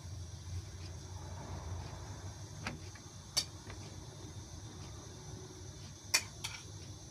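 Steady low background hum with a faint hiss, broken by a few short sharp taps, the loudest near the end.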